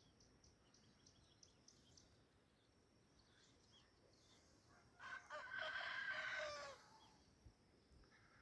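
A rooster crows once, about five seconds in: a single call of nearly two seconds whose pitch drops at the end. Faint high chirps come before it.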